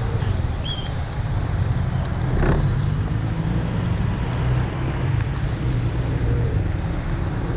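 Motor vehicle traffic on a rain-soaked street: a steady low engine drone under a constant wash of road and water noise, with a brief louder rush about two and a half seconds in.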